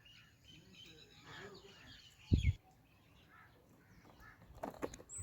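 Faint, high, short bird chirps, thick in the first two seconds. A loud low thump comes a little over two seconds in, and a few sharp clicks near the end.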